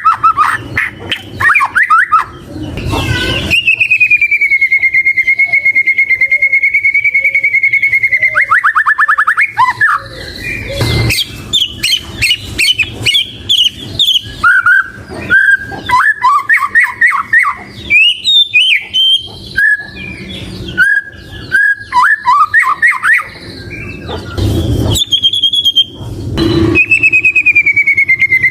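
White-rumped shama singing vigorously: a long, fast-fluttering whistle held for about five seconds, a quick run of falling notes, then a string of short, varied whistled phrases. A few brief noisy thumps come in between phrases.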